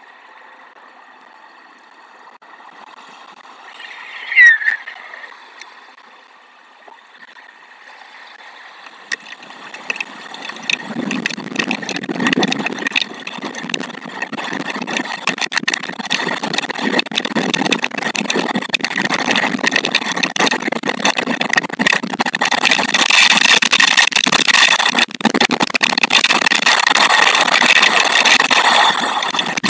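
Thunderstorm rain and wind building up on the nest camera's microphone: a faint hiss swells from about nine seconds in to a loud, crackling downpour, with a dense patter of drops hitting the mic. A single short falling chirp sounds about four seconds in.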